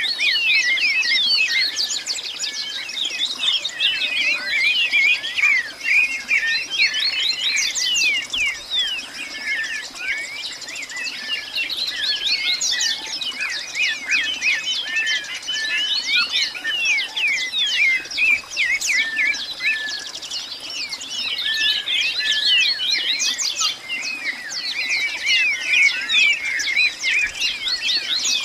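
A flock of birds chirping and chattering, many short overlapping calls at once, swelling louder in spells and easing back.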